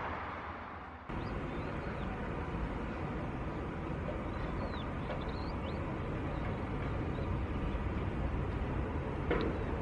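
Steady, even rumble of jet aircraft engines at an airport, starting abruptly about a second in after a fading jet sound. Birds chirp briefly several times in the first half.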